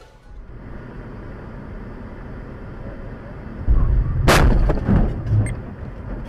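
A vehicle crash recorded from inside a car: steady road noise, then about halfway through a heavy low rumble and one sharp bang of impact, followed by a few smaller knocks.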